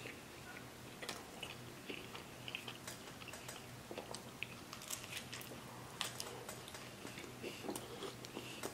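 Close-miked chewing of a bite of meat lover's pizza: irregular wet mouth clicks and crisp crust crunches scattered through.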